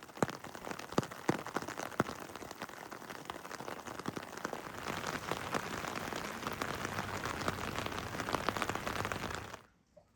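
Heavy rain falling steadily, with many sharp close drops striking among the hiss. It cuts off suddenly near the end.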